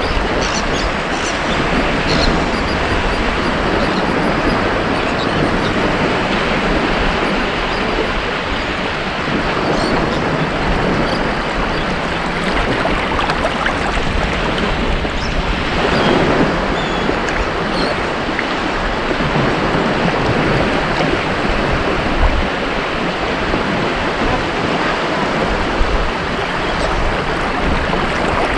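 Ocean surf on a beach: a continuous wash of breaking waves, with one wave surging louder about sixteen seconds in.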